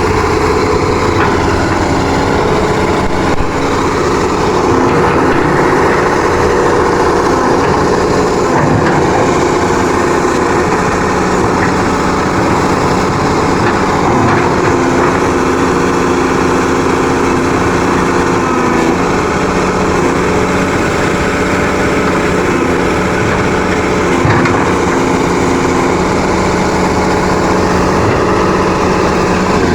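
Backhoe loader's diesel engine running steadily and loudly, its pitch shifting a few times as the load or throttle changes.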